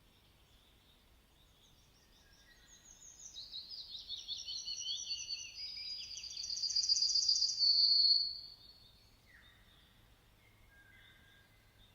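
Songbirds singing: a rapid run of high chirps and trills builds over about six seconds, then breaks off, leaving a few softer calls.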